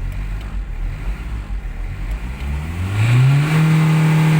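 Hyundai Accent CRDi common-rail diesel engine idling, then revved up over about a second and a half and held at high revs near the end. The throttle is opened to test whether the engine, running again with its CP1 high-pressure fuel pump fixed, reaches maximum RPM.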